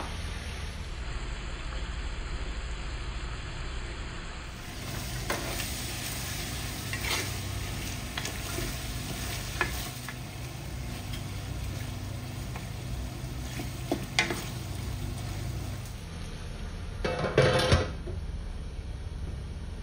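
Chicken pieces frying in oil in a large metal pot, sizzling as a wooden spatula stirs them and now and then knocks and scrapes against the pot. Near the end comes a louder, brief rubbing of a cloth wiping a steel pot lid.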